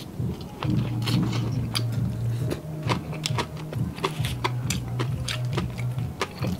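Close-up crunching of crispy deep-fried mussels being chewed and handled, a rapid irregular run of sharp crackles, over a steady deep hum.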